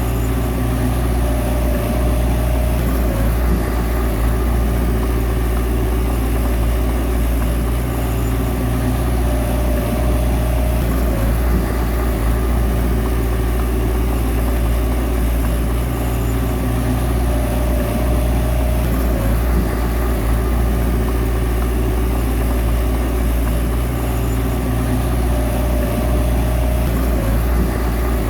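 Bulldozer's diesel engine running steadily, with a faint higher tone coming and going about every eight seconds.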